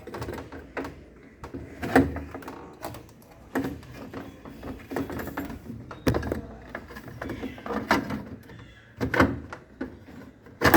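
Voltas Beko top-load washing machine being handled: a series of sharp knocks and clacks at irregular intervals, with quieter rattling in between.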